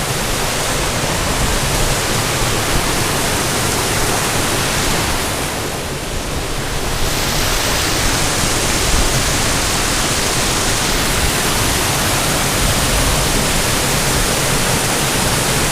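Waterfall rushing, a loud steady wash of falling water that eases slightly for a moment about six seconds in.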